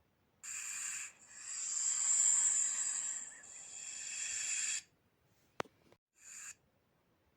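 A snake hissing in separate breaths: a short hiss, then a long hiss of about three and a half seconds, and a brief one near the end, with a single sharp click before the last.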